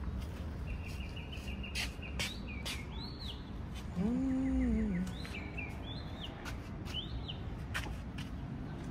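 Songbirds calling: a fast trill, then several arching whistled notes and chirps, over a low steady hum. Scattered clicks and knocks, and a short low rising-and-falling tone about four seconds in that is the loudest sound.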